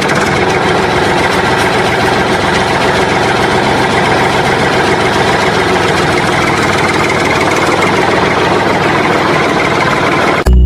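An engine running steadily at a constant speed, then cutting off abruptly near the end.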